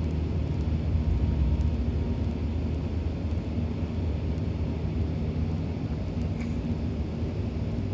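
Steady low rumble of an Airbus A380-800's engines and rushing air, heard inside the passenger cabin during the climb after takeoff. It swells slightly about a second in.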